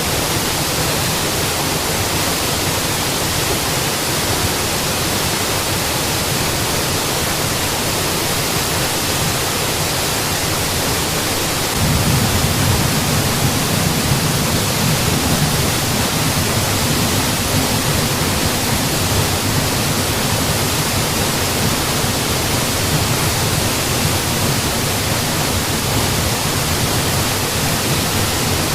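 A waterfall rushing steadily, an even full hiss of falling water. About twelve seconds in, its deeper rumble grows a little louder and stays that way.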